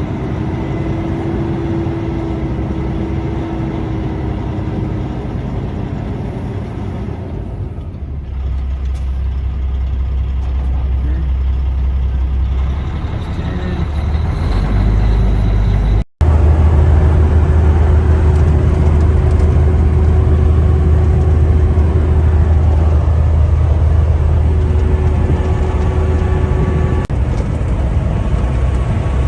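Semi truck's diesel engine running under way with steady road noise. The sound cuts out for an instant about sixteen seconds in, then resumes louder.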